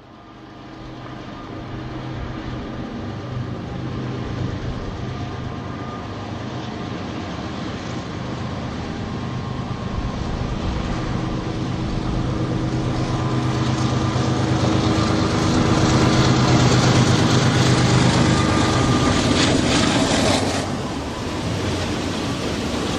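Norfolk Southern diesel freight locomotives approaching, their engines running with a steady hum that grows louder, then falling off suddenly about 20 seconds in as the locomotives pass, leaving the rumble of the train.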